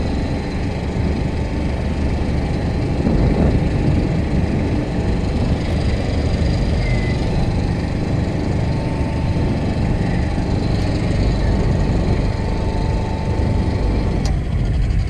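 Beta 13 hp inboard marine diesel running steadily under way at low speed, with a faint steady high whine that stops about a second before the end.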